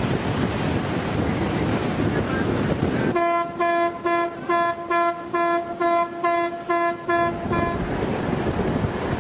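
Ship's horn sounding a rapid run of about ten short blasts, about two a second, the signal vessels use to warn of danger or doubt, over a steady rush of wind and sea.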